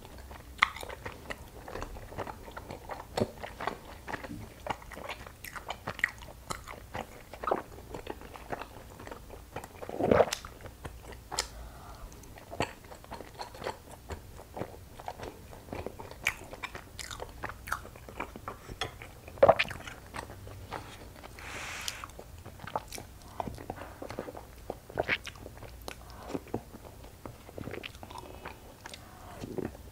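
A person chewing soft glutinous rice cake close to the microphones: a steady run of small mouth clicks and smacks, with two louder ones about ten and twenty seconds in.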